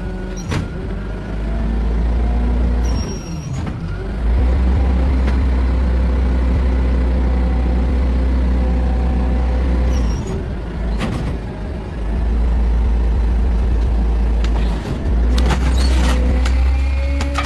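Garbage truck running, its deep engine rumble swelling in long stretches and easing between them, with several sharp clanks and a couple of brief high squeals.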